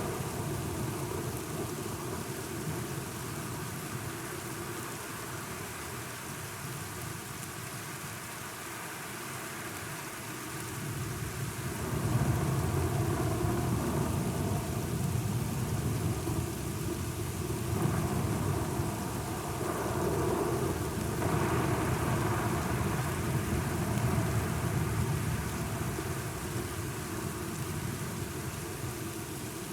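Steady rain with rolling thunder: a long, deep rumble builds about twelve seconds in and slowly dies away near the end.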